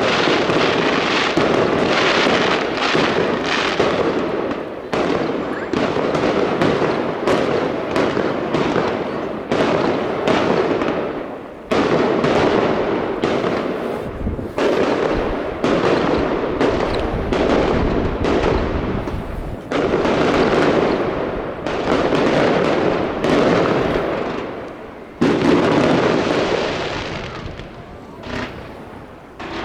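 Fireworks display: many bangs and crackles in quick succession, with short lulls about twelve seconds in and again near the end, each broken by a fresh loud burst.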